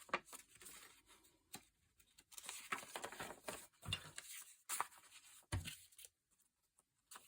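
Sheets of paper being handled: soft, irregular rustles and small taps, quieting for a moment just after six seconds.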